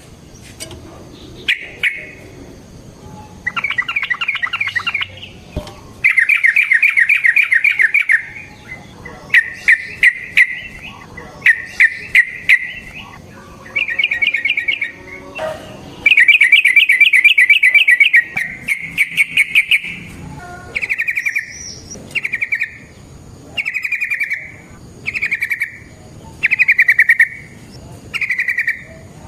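Yellow-vented bulbul (trucukan) singing loud, bubbling trilled phrases over and over, each a rapid warble around the same pitch. The phrases run about two seconds each at first and become shorter, one-second bursts in the second half, with short sharp ticks between some of them.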